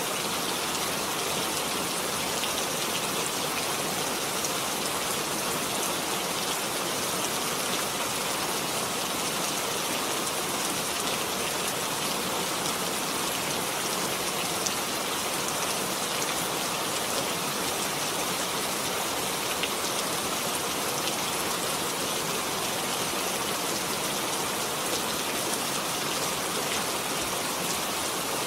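Steady rain falling, a dense even patter with scattered individual drop ticks.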